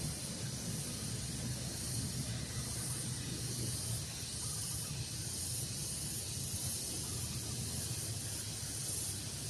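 Steady outdoor breeze: an even hiss with a low rumble of wind on the microphone, and no distinct bird calls standing out.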